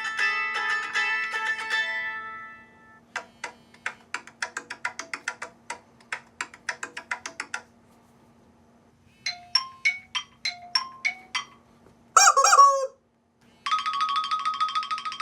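iPhone 5S ringtones playing back one after another: a plucked, mandolin-like arpeggio fades out in the first couple of seconds, then a run of short plucked notes, then after a pause a bright chiming figure. A brief honking squawk comes about twelve seconds in, followed by a trilling electronic ring tone that is still going at the end.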